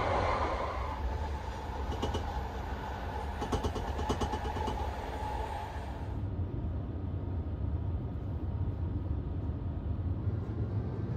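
Steady low rumble of a sleeper train running on the rails, heard from inside the carriage. A run of rapid clicks comes about two to five seconds in. About halfway through the sound turns duller, as the treble drops away.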